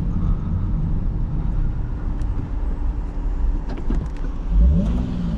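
Car engine running with a low rumble, revving up about four and a half seconds in.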